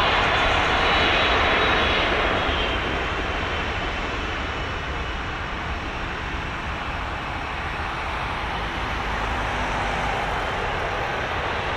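Boeing 777 jet engines, loud at first, then fading after about two seconds into a steady, lower rumble.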